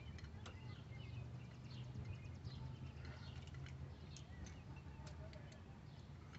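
Faint bird chirps with scattered small clicks and taps, over a low steady hum.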